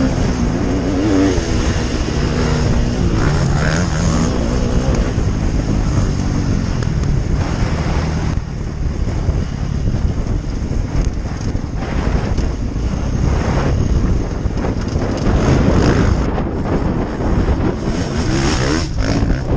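KTM dirt bike engine running and revving, its pitch rising and falling in the first few seconds, under heavy wind buffeting the microphone.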